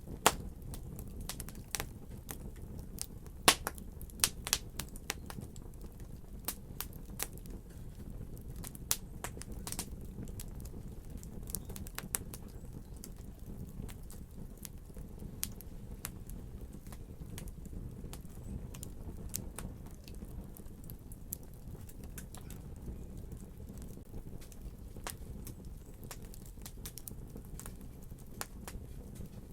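Fire crackling: scattered sharp pops and snaps over a low steady rumble. They come thick in the first dozen seconds and thin out after.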